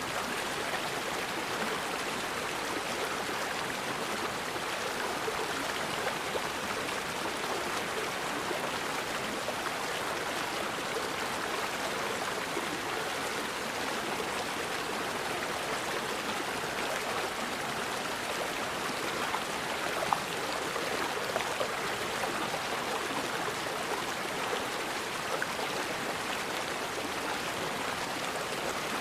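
Forest river flowing steadily, an even rush and babble of water over rocks, with one brief sharper sound about two-thirds of the way through.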